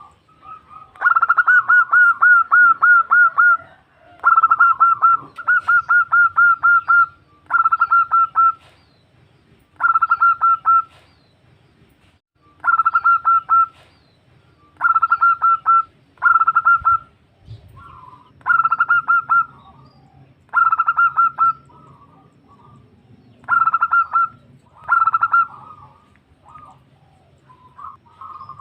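Female zebra dove (perkutut) calling: repeated bursts of quick staccato cooing notes, each burst about a second long (the first few longer), with short pauses between.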